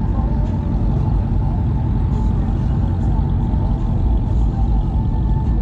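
A car's steady, loud low rumble, with no revving or sudden events.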